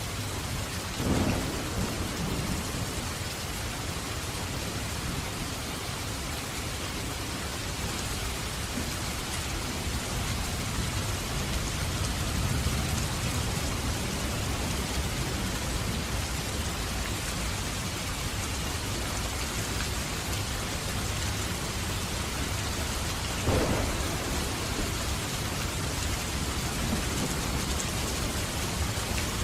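Steady rain with a thunderstorm: a sudden thunderclap about a second in, low rumbling through the middle, and another sharp clap near the end.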